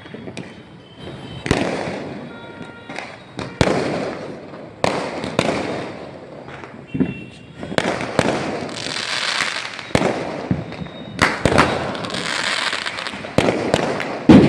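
Festival fireworks going off: a string of sharp, echoing bangs at irregular intervals, with a hissing, crackling spell between the bangs in the second half.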